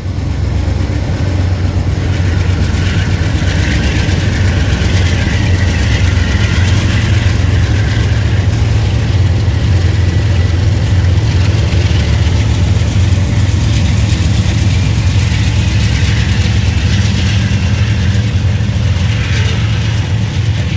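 Diesel freight locomotives hauling a loaded grain train, their engines running with a steady low drone.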